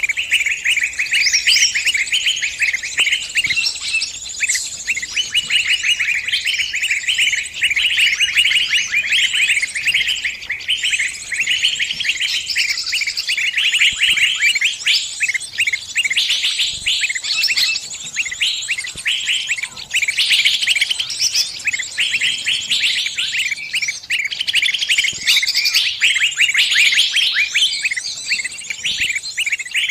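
Small bird's distress calls: rapid, continuous high-pitched chirping from a bird that is trapped or pinched and calling its companions for help.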